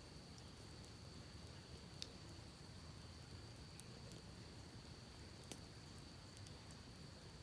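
Campfire crackling faintly, with two sharp pops from the burning wood, over a low haze and a steady thin high tone.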